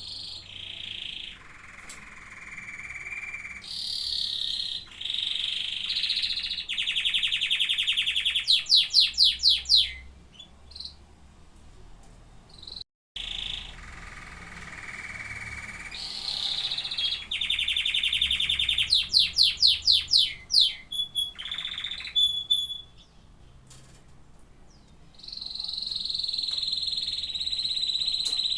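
Domestic canaries singing: two long song bouts, each about ten seconds of rapid trilled phrases, the loudest rattling trills near the end of each. A brief drop to silence comes between them, and a long steady high note follows near the end.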